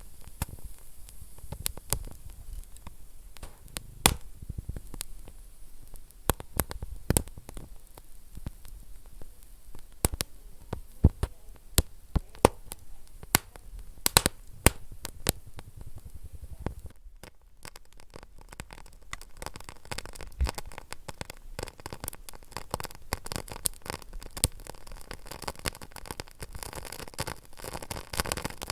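Wood fire burning in a fireplace: irregular sharp crackles and pops over a low hiss. The sound drops away briefly about two-thirds of the way through, and the hiss is denser after that.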